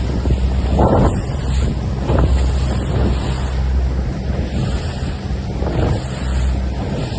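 Wind buffeting the microphone over water rushing and splashing against a Laser dinghy's hull as it sails upwind, with louder splashes about a second in, at about two seconds and near six seconds.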